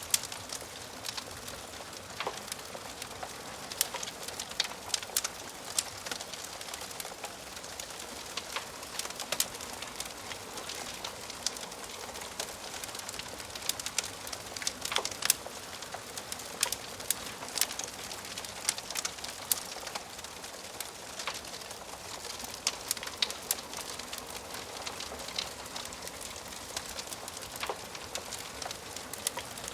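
Wood fire crackling in a fireplace: a steady hiss with frequent, irregular sharp pops and snaps of burning wood.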